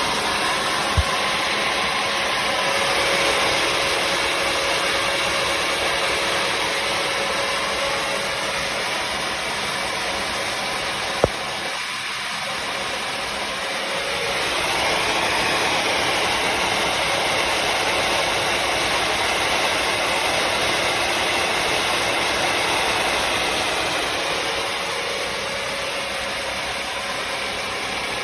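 Bissell CrossWave HydroSteam wet-dry floor cleaner running: the steady whine of its suction motor and spinning brush roll as it cleans the floor. A sharp click sounds about a second in, and another about eleven seconds in.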